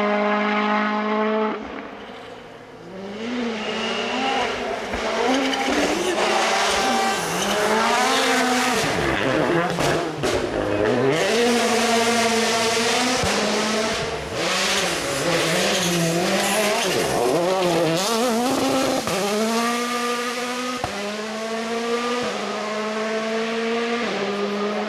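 World Rally Cars' 1.6-litre turbocharged four-cylinder engines at full attack, revs climbing and dropping through quick gear changes as the cars pass, with tyre and gravel noise. A cluster of sharp cracks about ten seconds in.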